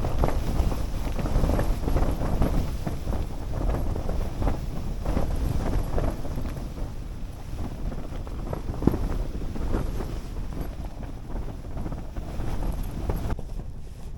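Snowstorm wind gusting hard against a Hilleberg Soulo BL tent, with heavy wind rumble on the microphone and uneven buffeting. The sound thins out abruptly shortly before the end.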